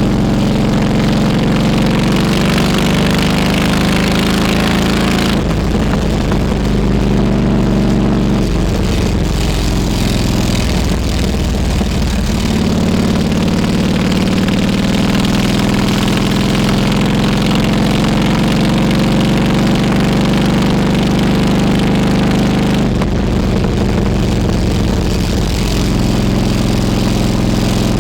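Harley-Davidson Road King Classic's air-cooled V-twin engine running steadily under way. Its note shifts pitch a few times, at about 5, 12 and 23 seconds in.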